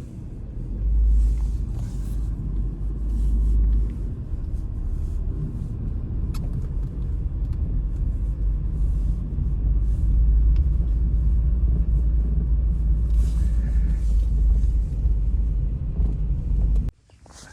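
Blizzard wind buffeting the microphone: a loud, steady low rumble that cuts off suddenly near the end.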